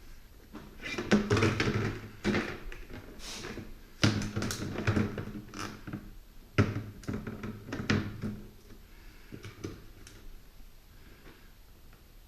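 Plastic pet-door frame knocking and clattering against a door as it is handled and fitted into the cutout, several sharp knocks over the first eight seconds or so, then quieter handling.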